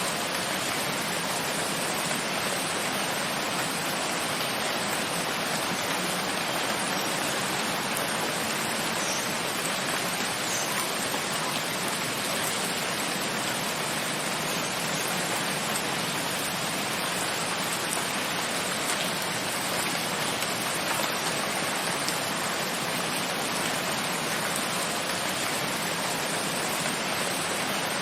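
Steady rain falling, an even, unbroken hiss with no pauses or changes in strength.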